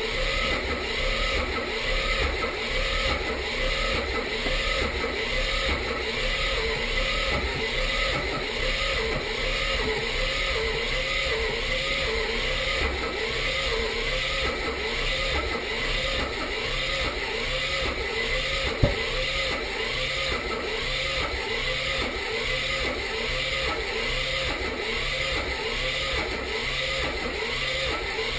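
1984 Mazda RX-7 rotary engine turning over on its starter motor with an even, rhythmic cranking, not catching. A single sharp click about two-thirds of the way through. The engine has spark and correct timing, and the owner suspects low compression from a stuck seal or too slow a cranking speed.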